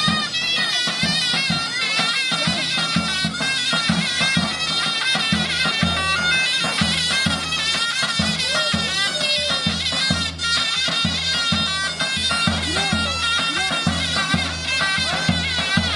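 Turkish folk dance music on zurna and davul: the shrill double-reed pipe plays a wavering, ornamented melody over regular bass drum beats, about three a second.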